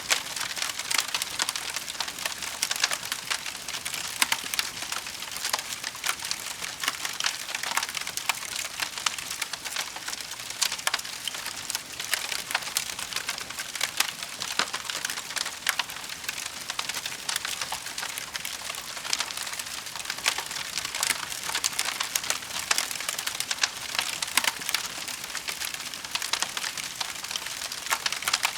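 Wood fire burning with a steady, dense crackle of small pops and snaps.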